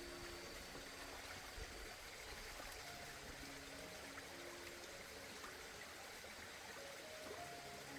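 Faint, steady rush of flowing water, with soft background music of short held notes over it.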